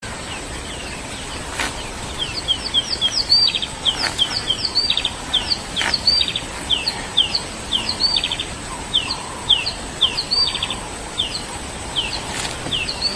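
Birds calling: repeated short downward-sweeping chirps, about two a second, mixed with brief rapid trills, over a thin steady high tone. A few faint clicks.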